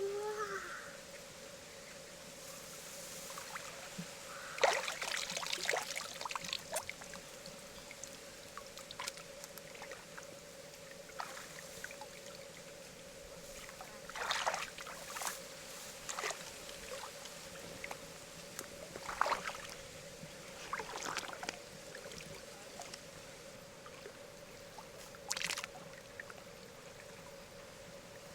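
Short bursts of water splashing and sloshing every few seconds, with a faint steady tone underneath.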